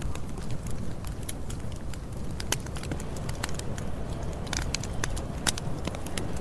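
Campfire burning: wood crackling with irregular sharp pops, several a second, over a steady low rumble.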